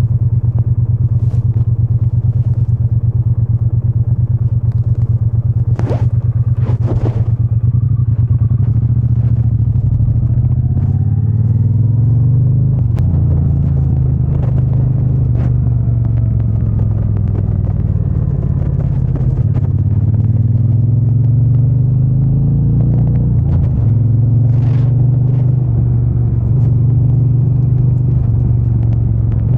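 Triumph Bonneville T120's 1200 cc parallel-twin engine and exhaust under way, the revs rising and falling through the gears. Two short rushes of noise come about six and seven seconds in.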